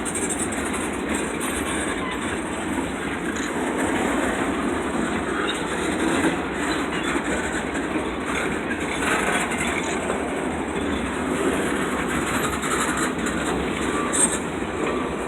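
Freight train cars rolling steadily past on the rails, the wheels clacking over the track.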